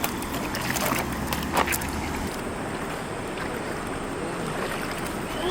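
Valley stream water rushing steadily, with a few sharp clicks in the first two seconds.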